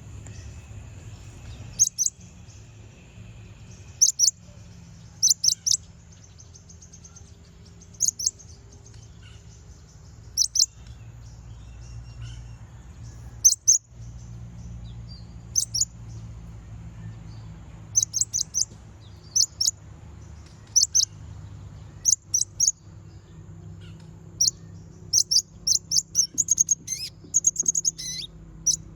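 A konin (kolibri ninja sunbird) giving short, sharp, high chirps in clusters of two to four every second or two, turning into a quick twittering run near the end. These are its calls to a rival. A steady low hum runs underneath.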